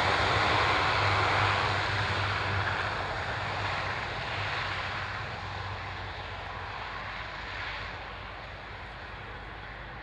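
Engines of an aircraft on its takeoff run and climb-out, a steady low drone that fades away as the aircraft departs.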